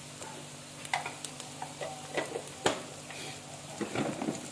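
Onions and spices frying in mustard oil in an aluminium pot, a steady low sizzle, with metal utensils clinking against the pot several times; the loudest knock comes a little past the middle.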